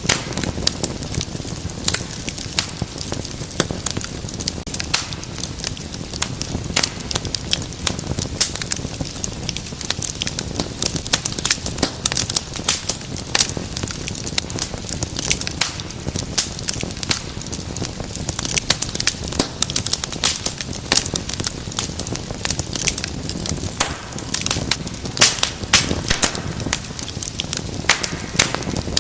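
Fireplace fire crackling, with many irregular sharp pops over a low steady rumble of the flames.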